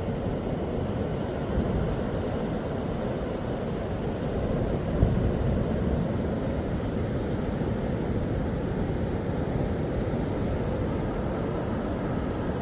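Steady low rumble of wind on the microphone and sea surf at the shore, with a brief louder moment about five seconds in.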